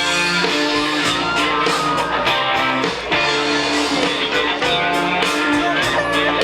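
Live rock band playing an instrumental stretch between sung lines: guitars over bass and drums.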